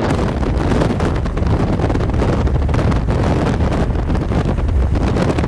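Strong wind buffeting the microphone: a loud, steady rush with a heavy low rumble.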